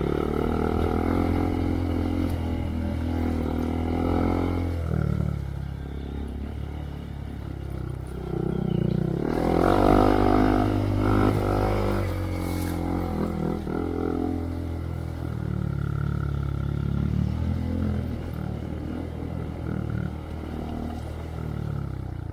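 A 2023 Honda Monkey's single-cylinder engine running through a Yoshimura RS3 exhaust while the bike is ridden on a trail. The engine speed rises and falls with the throttle, and it is loudest about ten seconds in.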